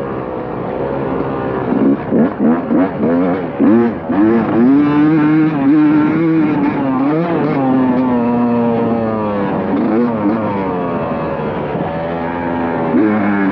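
Motocross bike engine being ridden hard, its pitch climbing and dropping over and over with throttle and gear changes, with a few stretches held at steady revs.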